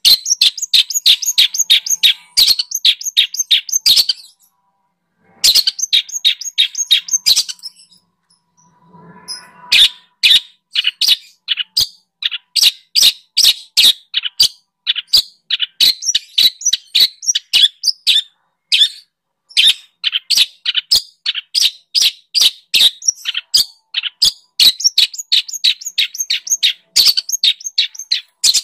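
A songbird singing fast runs of short, sharp, high chirps, several a second, pausing twice briefly; birdsong of the kind played as masteran, training song for long-tailed shrikes (cendet).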